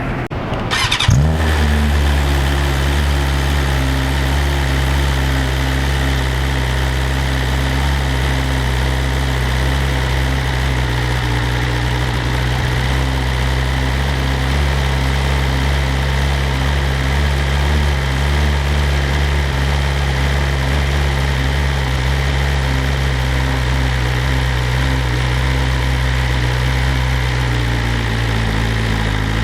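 2020 BMW S1000RR's inline-four with a full Akrapovic exhaust, cold-started: the starter cranks briefly about a second in, the engine catches with a short rev, then settles into a steady high idle that drops slightly near the end.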